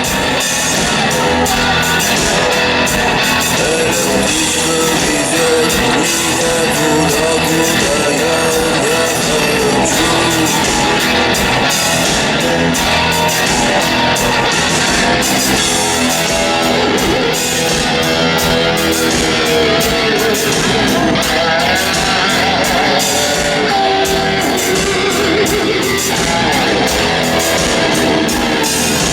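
Rock band playing live, electric guitars prominent over a steady drum beat.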